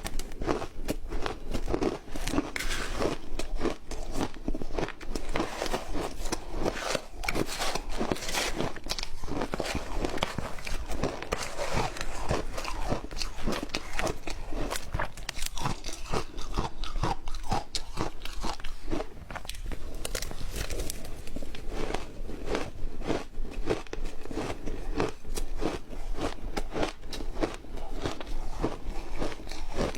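Close-up crunching and chewing of ice, a continuous dense crackle of biting and grinding the ice between the teeth.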